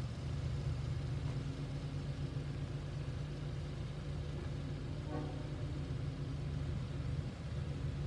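Diesel locomotive of a Long Island Rail Road train running with a steady low drone as the train pulls out of the station.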